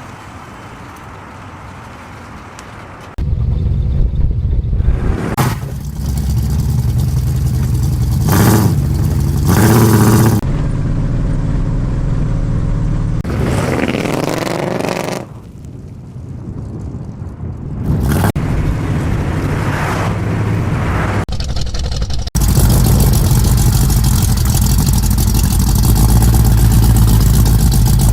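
A car engine running and revving in several cut-together clips, with a strong low rumble and a rising rev about halfway through.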